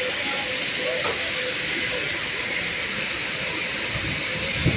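Steady hissing of car wash equipment spraying or blowing, with a low thump near the end.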